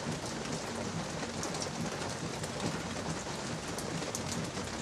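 Steady patter of light drizzle, with scattered drops ticking.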